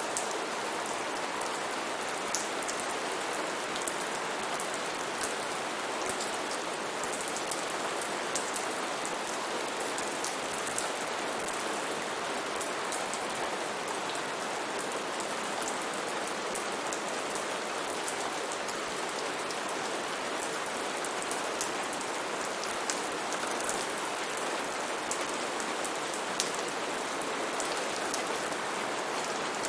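Steady heavy rain falling on foliage, a dense even hiss with many close drip and splash ticks scattered through it.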